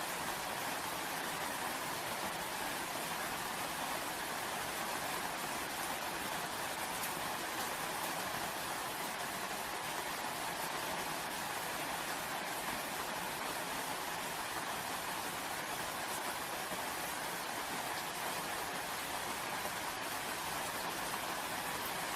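Steady rainfall, an even hiss of many drops with a few faint sharper drop ticks.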